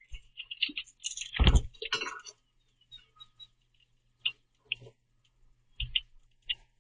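Common grackles at a feeder making short, harsh clicks and chack notes in scattered bursts, with a louder thump about a second and a half in.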